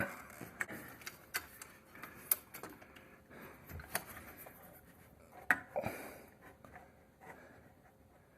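Scattered light clicks and small knocks of screws and metal ceiling-fan mounting hardware being handled and fitted into place.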